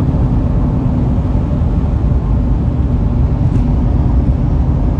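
Mitsubishi Pajero's 4M41 turbo diesel engine running steadily, a loud, even low rumble.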